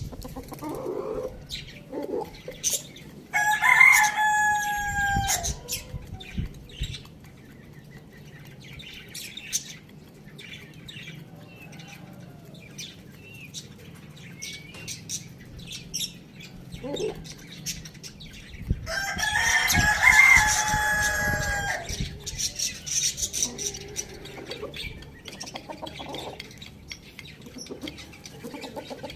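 Rooster crowing twice, a long crow a few seconds in and a second about two-thirds of the way through, each ending on a held, slightly falling note. Short clucks and small chirps come in between.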